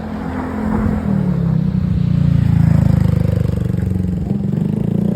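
A motor vehicle's engine running, growing louder to a peak about three seconds in and then easing off.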